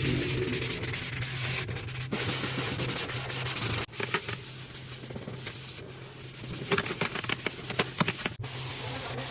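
Scrubbing and rubbing of cleaning work on a fridge, a steady hiss that breaks off abruptly several times. Bursts of short clicks and knocks come about four seconds in and again near the end.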